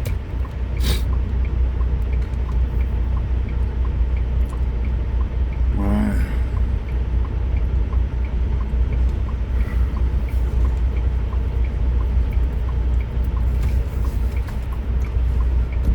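Truck engine idling, a steady low rumble heard from inside the cab while stopped at a light, with the turn signal ticking about twice a second.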